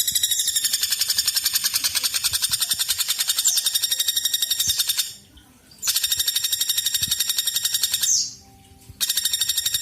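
Woodpecker calling: a fast, even, high-pitched rattling trill that breaks off twice for about a second, with a few short falling high notes over it.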